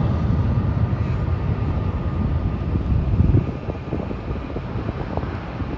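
Jet airliner's engines running with a steady low rumble and a faint whine, wind buffeting the microphone; the level drops a little past halfway through.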